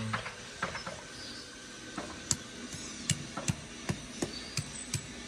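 A series of irregular light knocks and clicks, about a dozen sharp taps unevenly spaced, like hand-tool tapping.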